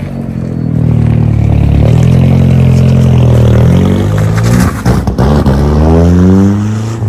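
Turbocharged Nissan Hardbody pickup engine under hard acceleration during a test hit: revs hold high, break briefly with sharp cracks about five seconds in, then climb steeply again before easing off near the end.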